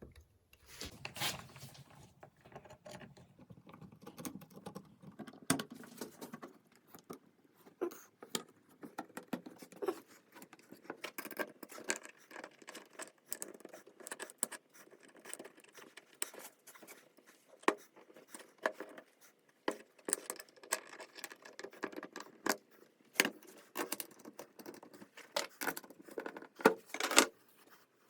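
Irregular small metal clicks, taps and rattles of an electric starter motor being put back together by hand after a brush replacement, with a few sharper knocks near the end.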